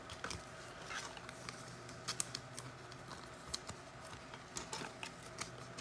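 Trading cards and packs being handled on a table: faint, irregular light clicks and taps, several a second at times, over a low steady hum.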